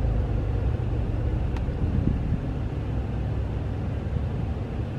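Porsche 911's flat-six engine idling, a steady low rumble heard from inside the cabin, with one faint tick about one and a half seconds in.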